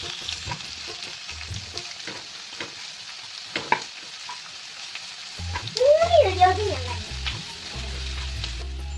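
Sliced onions sizzling in hot coconut oil in a frying pan, with scattered clicks of a spatula stirring them. About six seconds in, a brief wavering voice-like call rises over the sizzle, and a low music bass comes in around then.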